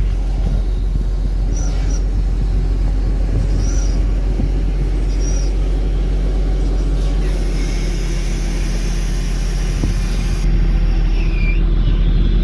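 Volvo grapple truck's diesel engine running steadily with a low drone, a little louder near the end.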